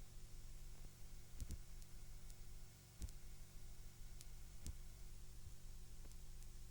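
Steady low hum and hiss from a VHS tape's audio track, with a few faint clicks.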